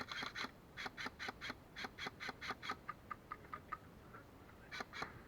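Airsoft gunfire: a string of short sharp pops, about five a second for several seconds, then a brief pause and a few more near the end.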